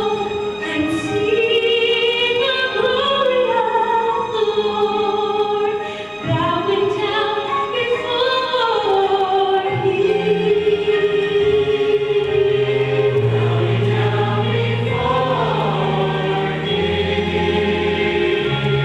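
Choir singing with accompaniment, sustained melodic lines over moving bass notes.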